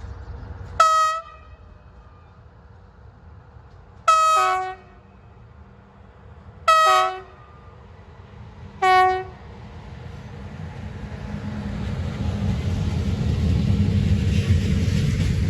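Locomotive horn sounding four short blasts, two to three seconds apart; the first is a single note and the rest are two-note chords. Then a train's rumble grows steadily louder as it approaches, and a thin high whine comes in near the end.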